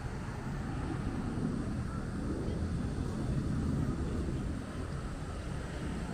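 Low, steady rumble of wind buffeting the microphone outdoors, with faint voices in the distance.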